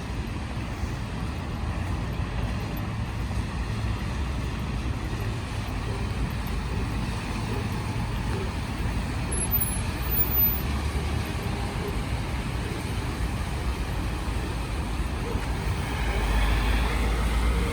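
Road traffic on rain-wet city streets: a steady rumble and hiss of passing cars. A heavier vehicle grows louder near the end.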